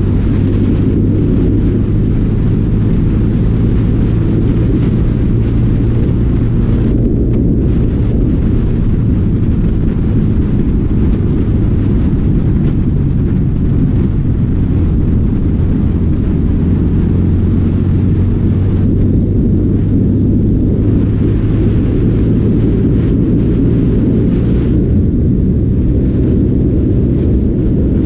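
Yamaha Sniper 150's single-cylinder four-stroke engine pulling hard as the bike accelerates past 100 km/h, a loud steady low drone mixed with wind rumble on the handlebar camera's microphone.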